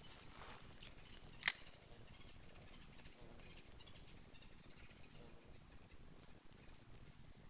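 Steady high-pitched insect drone, with one sharp click about a second and a half in.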